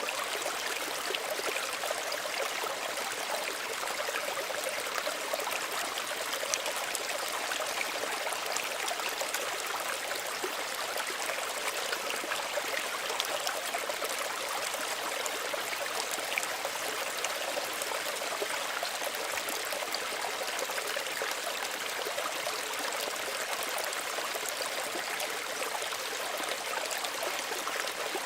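Small stream running and trickling steadily, with a fine splashing babble and little deep rumble.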